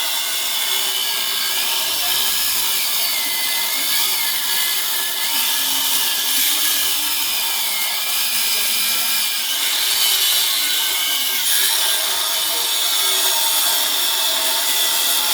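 Power grinder cutting into the solid metal wall of a safe: a loud, continuous grinding with a whine whose pitch wavers as the tool is pressed into the cut.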